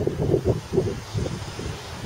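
Wind buffeting the microphone outdoors, in irregular low gusts, with a faint hiss rising near the end.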